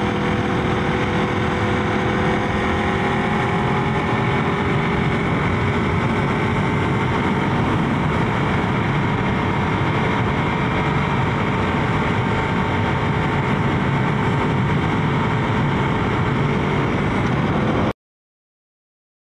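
Aprilia RSV4 RF's V4 engine running at a steady cruise, heard from on the bike with wind rush over the microphone. The sound cuts off abruptly about a second before the end.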